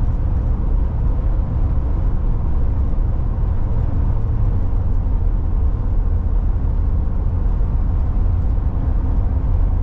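Steady road and engine rumble of a car being driven, heard from inside the cabin, with no change in speed or sudden events.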